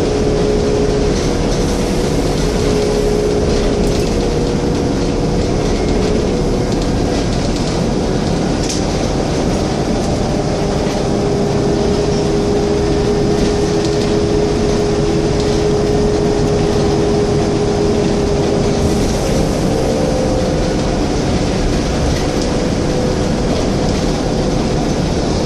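Scania N230UD double-decker bus's diesel engine running steadily as the bus travels, with road rumble and a held whine that shifts slightly in pitch.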